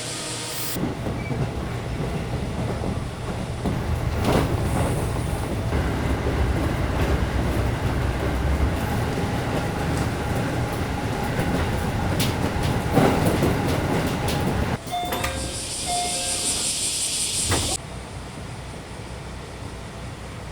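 Local train running on the rails: a steady low rumble with the odd click of the wheels over rail joints. About three quarters through comes a few seconds of hiss with faint tones, and then the running goes quieter.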